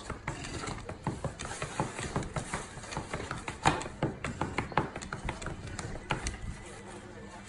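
Dog's claws tapping and clicking on a hardwood floor in a rapid, irregular patter as the dog shifts its front paws.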